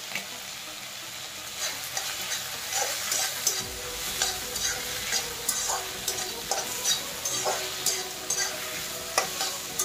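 Duck meat and onions sizzling in oil in a black kadai, stirred with a wooden spatula. There is a steady sizzle, and irregular scraping strokes of the spatula against the pan start about a second and a half in.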